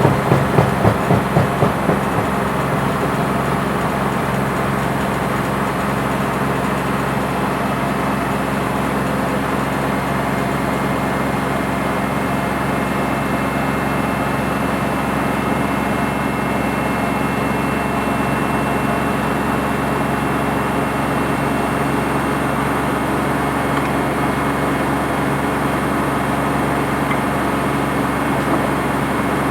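Washing machine running with a steady motor hum and drum noise, with a few rhythmic beats in the first two seconds and a faint high whine through the middle.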